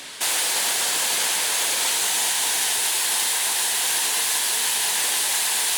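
Loud, steady rush of falling water, as from heavy rain or a waterfall, starting abruptly a moment in.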